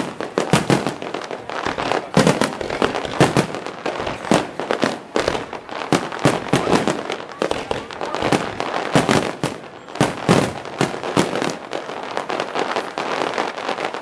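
Fireworks display: aerial shells bursting in quick succession, a dense, unbroken run of bangs and crackles.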